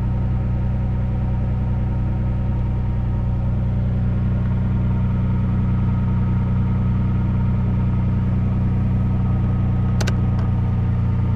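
Nissan Skyline GT-R's RB26DETT twin-turbo straight-six idling steadily with a deep, even rumble. A single sharp click comes about ten seconds in.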